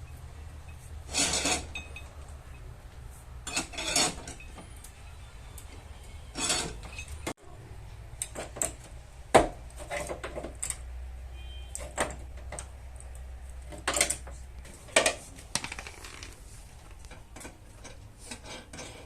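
Irregular metallic clinks and knocks of hand tools and pulling gear against car body metal, some single sharp strikes, over a low background hum that stops about fifteen seconds in.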